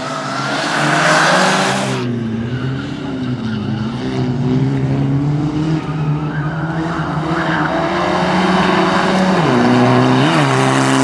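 Rally car engine running hard, its pitch rising and dipping as the throttle and gears change, with two quick dips near the end. For about the first two seconds a loud rush of noise lies over it, and then it cuts off suddenly.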